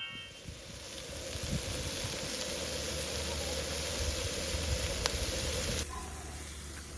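Meat sizzling on a hot grill: a steady hiss with scattered crackles that cuts off suddenly about six seconds in.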